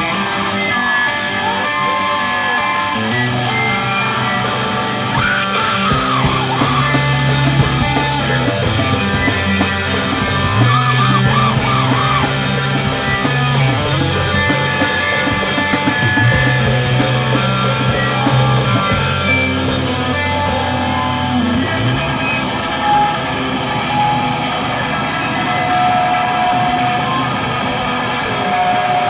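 Screamo band playing live: electric guitars with a bass guitar holding long low notes that shift every few seconds.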